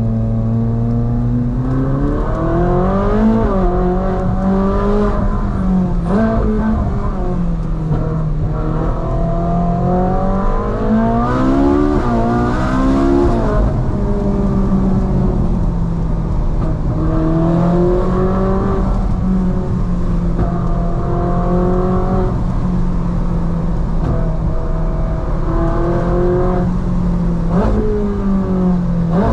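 Ferrari 458 Spider's 4.5-litre naturally aspirated V8 under way. The revs rise and fall again several times as it accelerates and eases off, with steadier cruising stretches in between.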